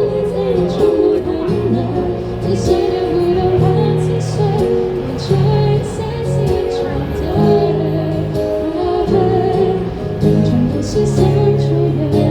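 A live band playing a pop song, with a bass line stepping between notes, sustained guitar or keyboard tones and singing over the top.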